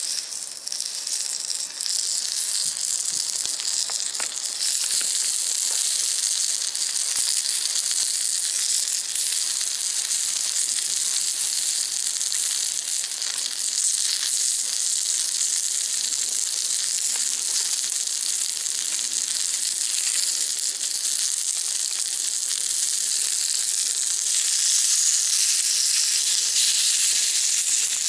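Food sizzling in a small cast-iron skillet: a steady frying hiss that gets a little louder near the end.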